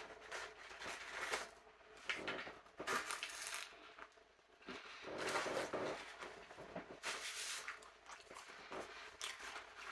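Faint, irregular eating noises: chewing, with rustling and small clicks from handling the takeout food and its container.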